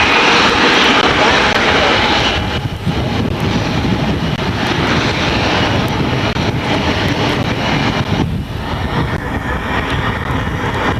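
Jet aircraft engines running loudly, a steady whooshing noise that dips briefly about two and a half seconds in and eases off somewhat after about eight seconds.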